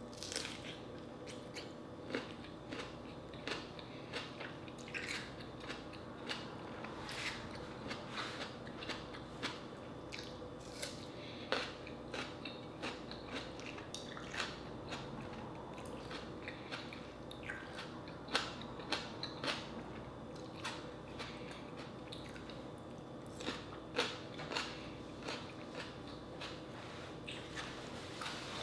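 Close-miked chewing and biting as a person eats slices of raw green tomato, with irregular short crunches and mouth clicks.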